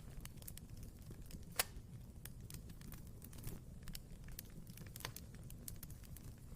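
Wood fire burning in a fireplace: a low steady rumble of the flames with irregular crackles, and a sharp pop about a second and a half in, with another near the end.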